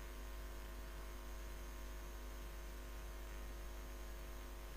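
Steady, low electrical mains hum with faint hiss, unchanging throughout; no pouring or cooking sound stands out.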